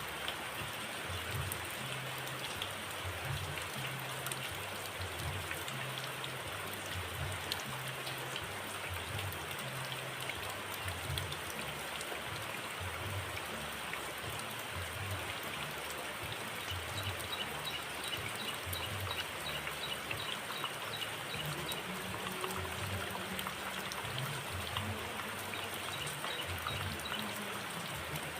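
Steady rushing noise like running water. A faint, rapid, high-pitched bird trill comes in about two-thirds of the way through and again near the end.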